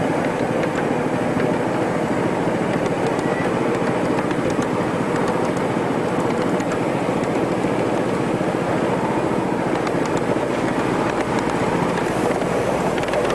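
Ride-on miniature railway train running: a steady mechanical noise with faint scattered clicks.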